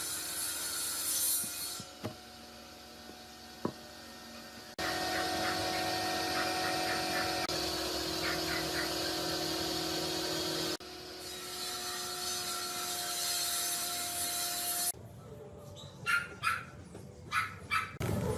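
Woodworking power tools in short clips cut hard one after another: steady machine noise of sawing or sanding, some segments with a steady hum. Near the end come several short, sharp sounds in quick succession.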